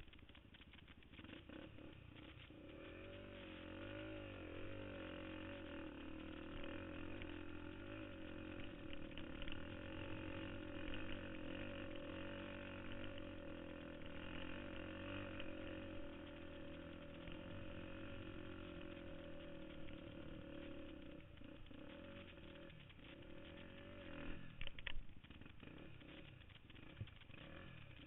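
KTM 250 XC-F dirt bike's single-cylinder four-stroke engine running under varying throttle, muffled as heard from a helmet camera. It picks up about two seconds in and eases off near the end, where a few sharp knocks stand out.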